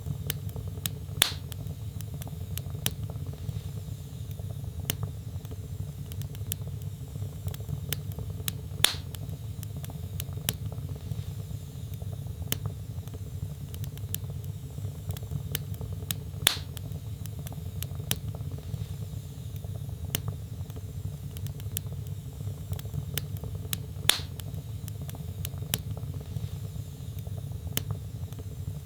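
Wood fire burning in a fireplace: logs crackling with frequent small ticks over a steady low rumble, and four louder pops evenly spaced about seven to eight seconds apart.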